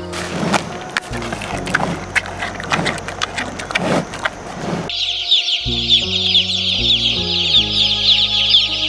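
Chickens clucking over background music. About five seconds in, the clucking gives way to a dense chorus of high, rapid chirping.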